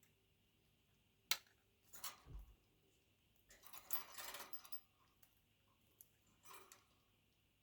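Budgerigar pecking and nibbling at a seedy banana with its beak: a sharp click a little over a second in, then several short, scratchy bursts of pecking and chewing, with a soft low thump among them.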